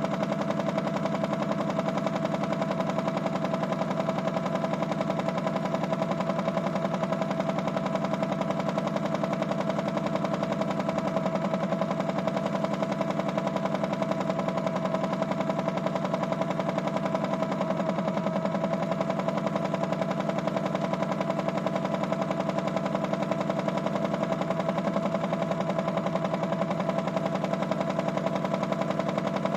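Small electric motor of a Miele W1 toy washing machine running steadily, a constant whine over a fast, even rattling buzz.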